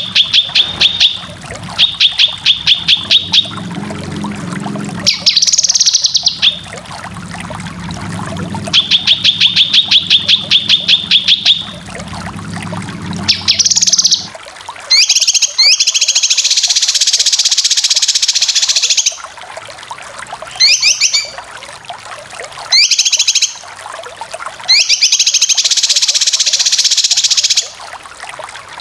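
Cucak kinoy bulbul song in rapid bursts: fast trills of repeated notes, each a second or two long, then from about halfway through, harsh chattering phrases of a few seconds alternating with short sharp calls. A low hum runs under the first half and stops about halfway.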